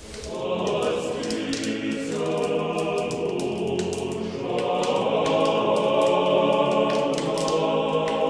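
A choir singing in several sustained voice parts, entering abruptly at the start.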